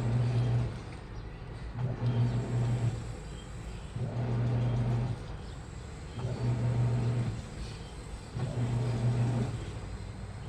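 Washing machine motor turning the drum in short bursts of about a second, repeating every two seconds or so, each burst with a low hum, over a steady background churn: the stop-start drum action of a wash cycle.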